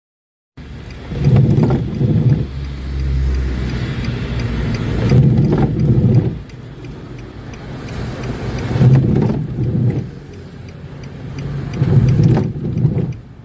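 Car windshield wiper blades juddering across the glass in repeated sweeps, a loud low croaking chatter about every three and a half seconds: wiper chatter, the blades skipping instead of gliding, a fault that often appears after the windshield has been coated.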